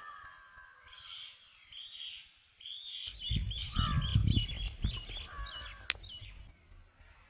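Birds calling in the background: a run of quick chirps and a falling call. A low rumble comes in about three seconds in and fades by five, and there is one sharp click near six seconds.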